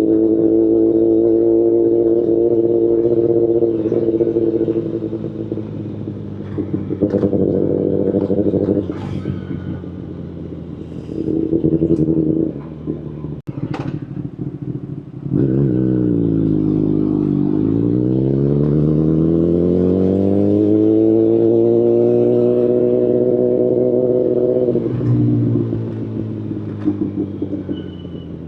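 2019 Kawasaki Ninja ZX-10RR's inline-four running through an Akrapovic Evolution Line carbon full exhaust while ridden. It pulls steadily at first, then the throttle is rolled off and blipped in short bursts. Around the middle the engine note falls and then climbs in a long pull that holds before the throttle is shut near the end.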